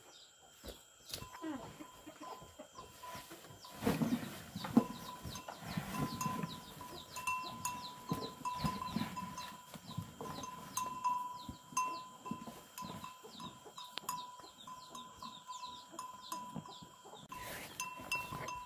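Farm animals calling with scattered low calls, over a background of quick high chirps and a faint pulsing tone.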